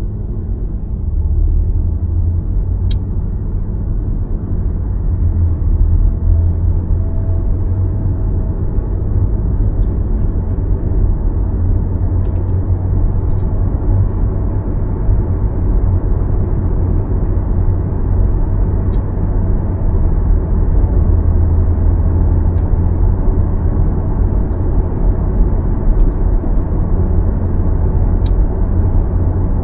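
Steady low rumble of a car driving along: road and tyre noise, with a few faint clicks now and then.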